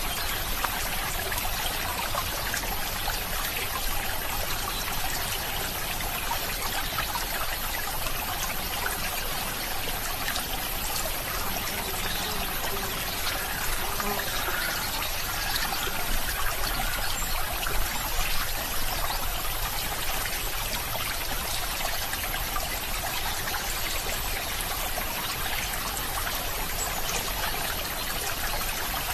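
A stream trickling and flowing, a steady even rush of water.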